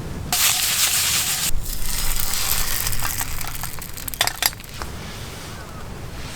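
A sudden loud hiss sets in just after the start and eases off after about a second, with a few light metal clinks of cooking gear about three and four seconds in.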